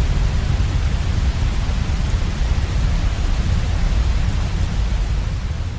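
Heavy waterfall: a steady, dense rush of falling water, strongest in the low end, starting to fade out near the end.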